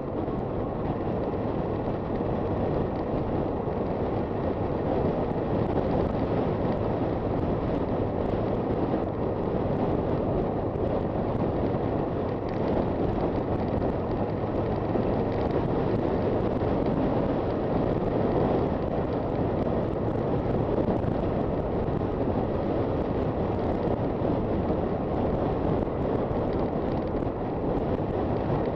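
Honda FT400 single-cylinder motorcycle engine running at a steady cruise while riding, with steady wind and road noise on the microphone.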